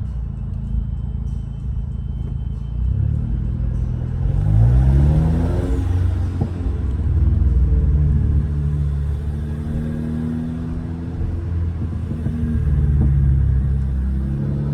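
2015 Mercedes CLA 250's turbocharged 2.0-litre four-cylinder with straight-piped exhaust and open intake, running as the car drives. About three to five seconds in it accelerates, its pitch rising, then it settles back into a steady low drone.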